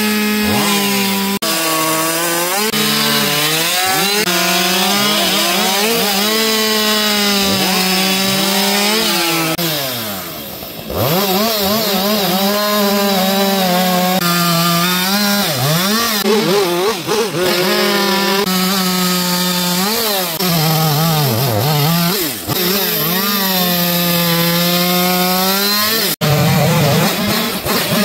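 Chainsaw running at high revs while cutting firewood, its pitch sagging and recovering again and again as the chain bites into the wood. The engine note drops away briefly about ten seconds in before it picks up again.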